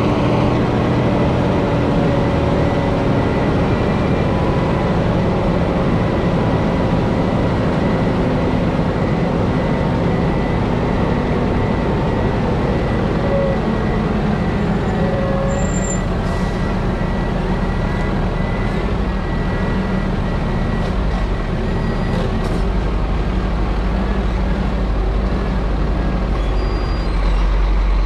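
Scania G440 truck's six-cylinder diesel engine and drivetrain running steadily as the heavily loaded tanker rig descends a hill. The deep low rumble grows louder about three-quarters of the way through and again near the end.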